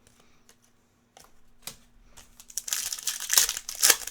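Crinkling plastic and foil packaging as trading cards are handled. It starts with scattered clicks and builds into dense crackling in the second half, over a faint steady hum.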